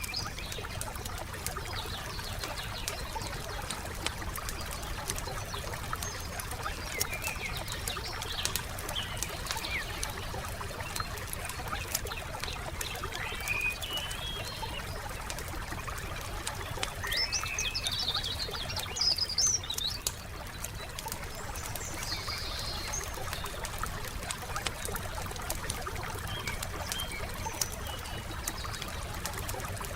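Wood fire crackling with frequent small pops over a steady low rumble, while songbirds chirp in short bursts every few seconds.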